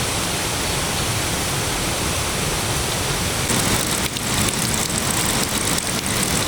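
Steady rushing noise of water. From about three and a half seconds in, it turns rougher, with many small crackles and spatters.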